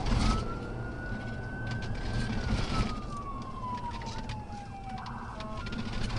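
Police car siren wailing in one slow rise and fall, over steady engine and road rumble during a high-speed pursuit; shorter stepped siren tones come in near the end.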